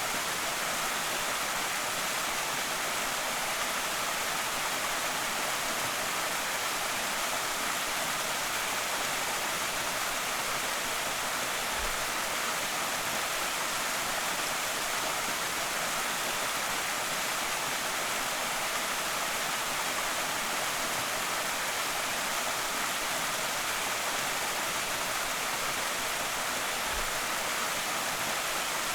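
Small creek waterfall rushing steadily, an even hiss of falling water with no change in level.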